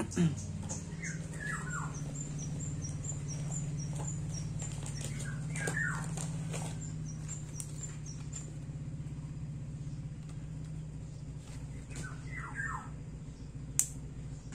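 Birds calling in the background: short falling chirps in groups of two or three, heard three times, with a fast run of thin, high chirps through the first half. A steady low hum runs underneath, and there is a single sharp click near the end.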